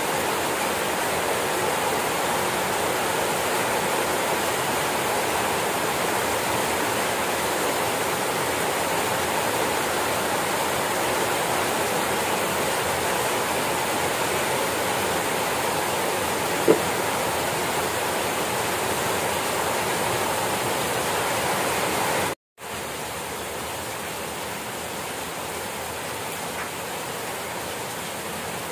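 Rain falling steadily, an even hiss. One short click about two-thirds through; near the end the sound drops out for a moment and comes back a little quieter.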